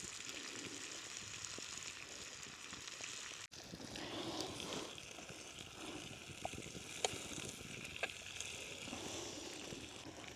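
Bacon sizzling faintly in a pan over a small twig stove, with a few sharp little clicks and crackles.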